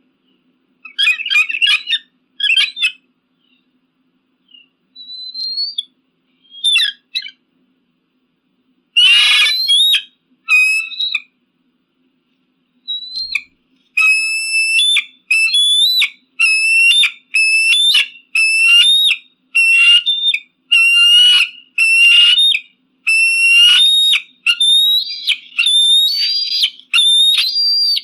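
Eagle calling: high-pitched whistled chirps, scattered at first with a harsher call about a third of the way in, then a steady series of about one call a second through the second half.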